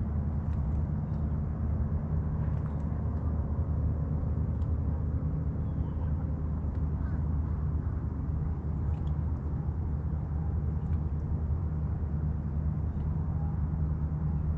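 Boat engine running steadily, a low even drone, with a few faint short high chirps above it.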